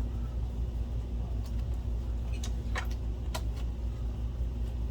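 Steady low hum with a few sharp light clicks, about four in the middle of the stretch: small parts of an opened projector being handled.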